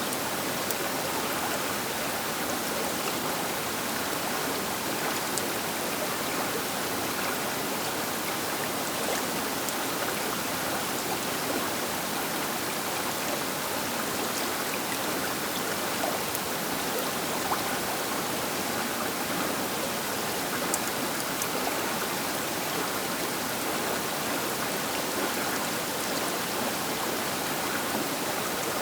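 Baker River flowing, a steady rushing of water with faint splashes and droplets.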